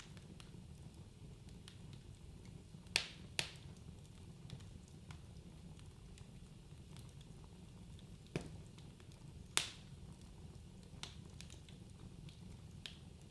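Wood fire crackling in a fireplace: a low, steady rumble of flame with scattered small crackles and a few sharp pops of burning logs, two close together about three seconds in and two more later on.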